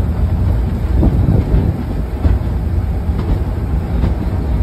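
Railway passenger carriage running along the track, heard from inside the wooden coach with an open window: a steady low rumble with faint clacks of wheels over rail joints.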